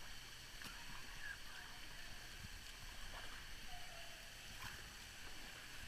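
Faint water lapping and sloshing around an inner tube drifting on a slow lazy river.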